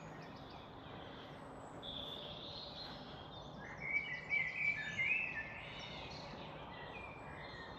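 Wild birds singing, short high chirping phrases over a faint steady outdoor background, loudest in a run of song about four to five seconds in.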